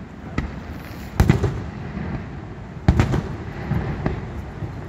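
Aerial firework shells bursting: two loud booms about a second and three seconds in, with smaller pops between them, over the steady low rush of Niagara Falls.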